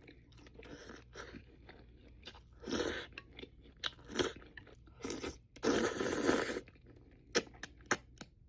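Crunchy bites and chewing of crispy fried food, with loud crunches about three seconds in and a longer run of crunching around six seconds, then a few sharp mouth clicks.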